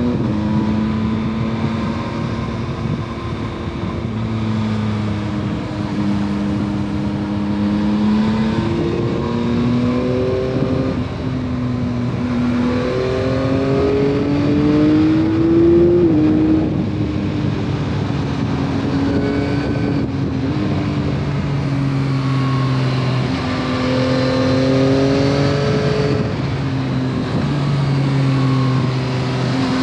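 2021 Yamaha MT-09 SP's 890 cc inline three-cylinder engine on its stock exhaust, under way with the revs rising and falling repeatedly. The pitch climbs to its highest about sixteen seconds in, then drops.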